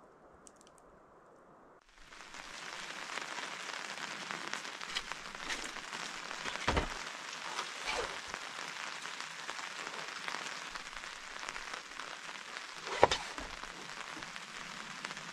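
Rain pattering steadily on a tarp overhead, coming in suddenly after a faint low hiss in the first two seconds. Two sharp knocks from gear being handled at the Jeep's open tailgate, one in the middle and a louder one near the end.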